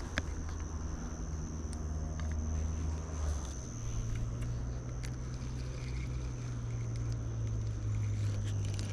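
A low, steady engine hum, its pitch stepping up about three and a half seconds in, over a constant high insect drone and a few faint clicks.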